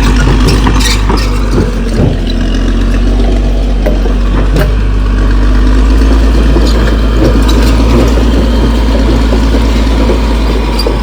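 CAT D6R XL crawler bulldozer's diesel engine running steadily, its note rising a little around the middle, with a few sharp clanks in the first half.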